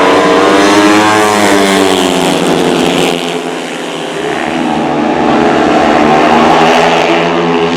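Speedway motorcycles' 500 cc single-cylinder engines racing at full throttle, the pitch rising and falling as they pass. The sound swells twice, with a dip about four seconds in.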